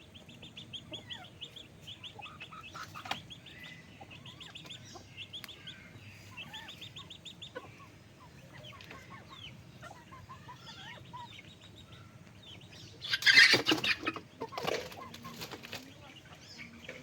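Chickens clucking, with a rapid run of high chirps through the first half. About thirteen seconds in comes a loud flurry of wing flapping, then a shorter, weaker one just after.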